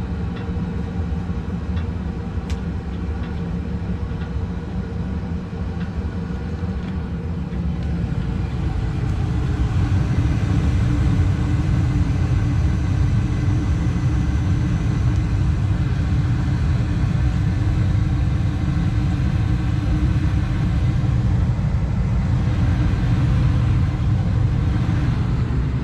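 A 2018 Bryant Preferred 80% efficiency single-stage gas furnace running, a steady low rumble that grows louder about eight to ten seconds in and then holds.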